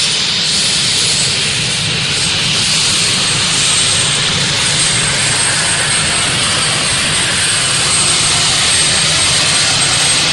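Jet turbine engine of a turbine-powered pulling tractor running hard and steadily: a loud rushing noise with a thin, high, level whine.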